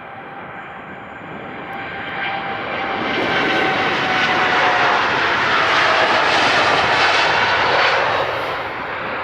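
Jet engines of a heavy widebody airliner taking off. The engine noise builds over the first few seconds and peaks, then the engine whine drops in pitch as the aircraft passes, fading near the end.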